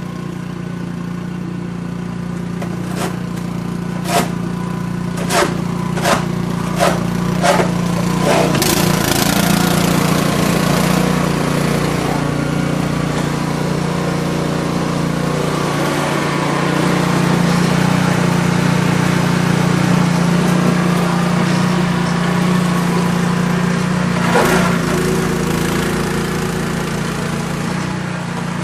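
A small engine running steadily, with a quick run of about seven sharp knocks a few seconds in.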